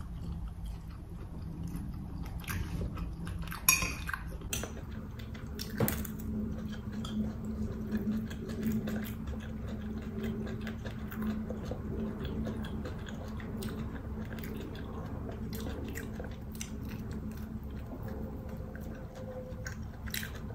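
Close-miked chewing and biting as meat is eaten off a roasted chicken bone, with many small wet mouth clicks. Two sharper knocks come about four and six seconds in, and a faint steady hum sets in about four seconds in.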